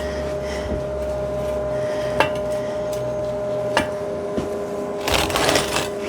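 Steel tubing and a clamp being handled: two single sharp metal clicks, then a scraping rustle near the end, over a steady hum.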